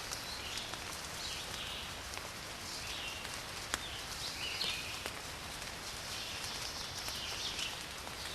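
Steady rain with occasional sharp drips, and birds chirping repeatedly through it.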